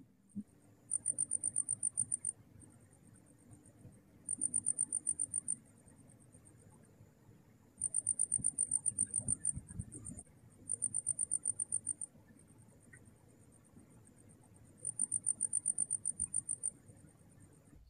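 A cricket trilling in high-pitched pulsed bursts of one to two seconds, about ten pulses a second, repeating every few seconds with fainter pulses in between.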